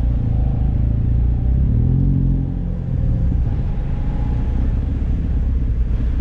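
Turbocharged 1999 Mazda Miata's four-cylinder engine pulling at low speed, heard from the open cockpit; the engine note rises about one and a half seconds in, then drops off near the middle and settles back to a steady run.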